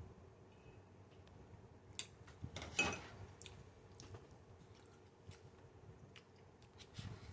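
Faint chewing and wet mouth clicks from a person eating, with a few sharper clicks; the loudest is about three seconds in.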